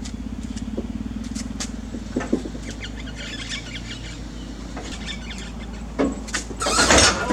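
Engine hoist chain and metal parts working as a Toyota 4Y engine is moved on the hoist: a fast ratcheting tick, scattered clinks and knocks, then a loud clatter near the end as the engine catches and wedges.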